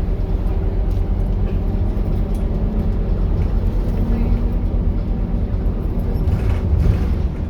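Scania K230UB bus's diesel engine and ZF automatic gearbox running under way with a steady low drone. A short hiss comes about six seconds in.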